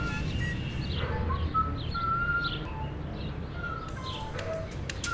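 Small birds chirping and giving short whistled notes at varying pitches, over a steady low outdoor rumble, with a few sharp ticks near the end.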